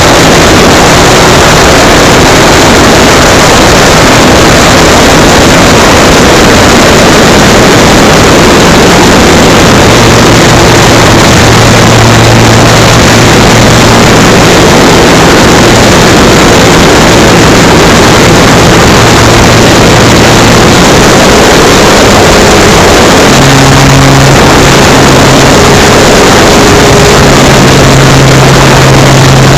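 Electric motor and propeller of an FMS Cessna 182 RC model plane running in flight, heard from a camera on board, under heavy rushing wind noise. The low hum of the motor and propeller shifts in pitch several times.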